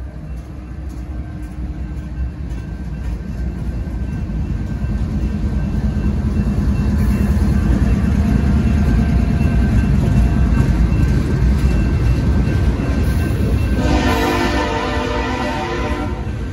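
A freight train's GE diesel locomotives rumble past a grade crossing, growing louder toward the middle as the units go by, with the crossing bell ringing. A train horn sounds for about two seconds near the end.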